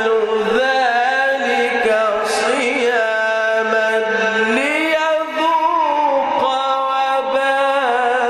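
A man reciting the Quran in a slow, melodic chanting style, drawing out long ornamented notes. His pitch sinks and then climbs about halfway through.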